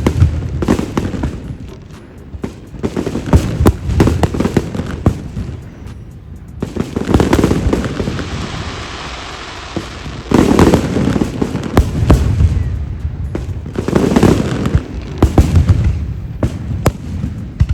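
Fireworks going off: clusters of sharp bangs and crackles over deep booms, with a hissing stretch about halfway through.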